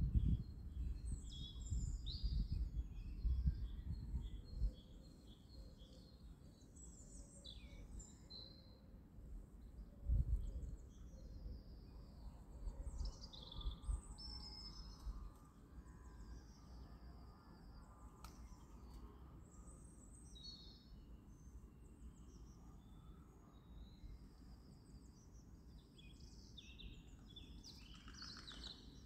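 Small songbirds chirping and calling in quick, scattered phrases, with low rumbles in the first few seconds and again about ten seconds in.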